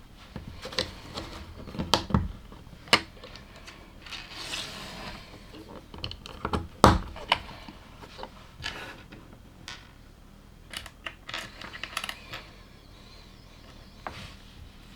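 LEGO plastic bricks clicking and clattering as pieces are picked up, set down and pressed together, with a short rustle about four seconds in and a louder knock about seven seconds in.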